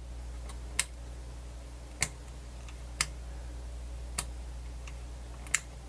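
A handful of separate sharp clicks, roughly one a second, over a low steady hum: small switches or controls on the radio being worked while it sits on the bench supply.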